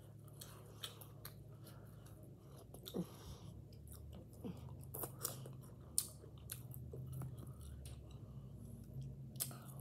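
A person chewing a mouthful of cooked vegetables, with wet smacks and sharp mouth clicks scattered through. A few of the clicks in the second half are louder.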